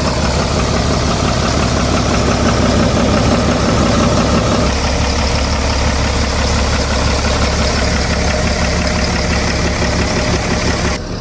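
Diesel engine of heavy construction machinery running steadily, its low note getting stronger about five seconds in.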